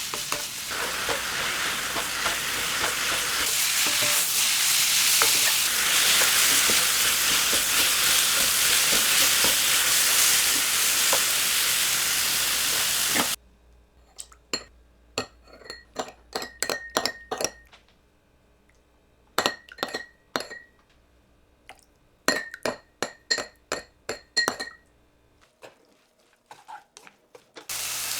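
Food sizzling in a hot frying pan, which cuts off suddenly about thirteen seconds in. After that come irregular light clinks and taps of a utensil against ceramic or glass dishes, some with a short ring.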